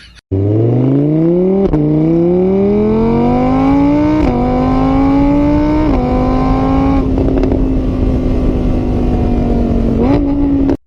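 A motor vehicle's engine accelerating through the gears: the pitch climbs, drops back at each of three gear changes, then holds steady at high revs before cutting off.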